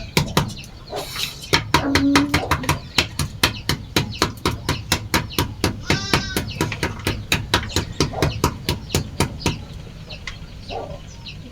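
Knife chopping on a cutting board: quick, even strokes at about four or five a second that stop about nine and a half seconds in. A bird call rises once about six seconds in.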